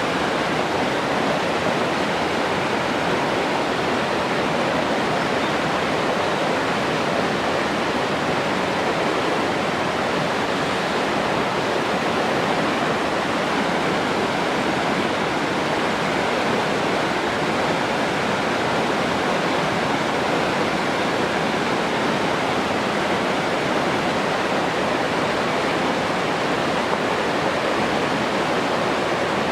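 Steady rushing water, a continuous even wash of noise with no breaks or changes.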